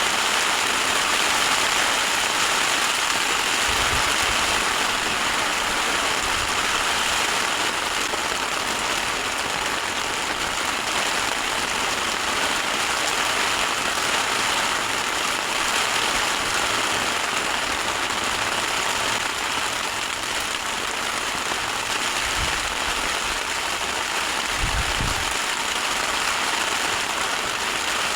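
Torrential rain pouring steadily onto a tent, a dense even hiss, with a few low thuds about four seconds in and again near the end.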